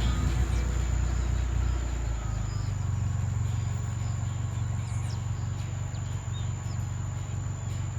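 A vehicle engine running with a steady low hum, and a few short bird chirps over it from about three seconds in. Guitar music fades out in the first second.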